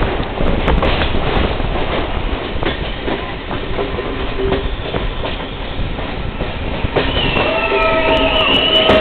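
Train running on the rails: a steady rumble with scattered rail-joint clicks. About seven seconds in, a wavering high-pitched squeal starts, metal wheels squealing against the rails.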